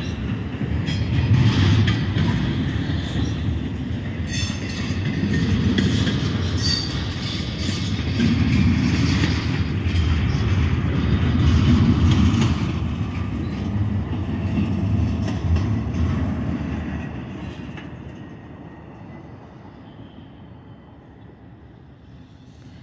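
Double-stack intermodal container cars of a freight train rolling past, with a steady rumble and clatter of steel wheels on the rails and a few sharp clicks. The sound drops away about 17 seconds in as the end of the train passes and recedes.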